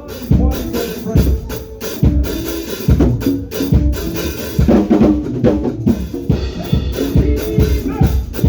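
Praise band music, led by a drum kit playing a driving beat with bass drum and snare over a pitched accompaniment.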